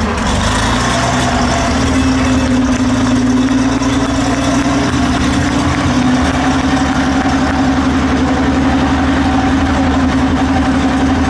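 Tiger tank's V12 petrol engine running steadily at idle after being started with its inertia starter, settling into an even rumble about a second or two in.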